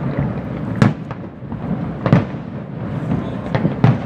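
Aerial display fireworks bursting: four sharp bangs, the last two close together near the end, over a continuous low rumble.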